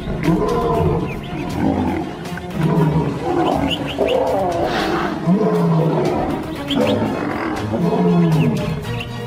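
Lions growling, a short call about every second, with background music underneath.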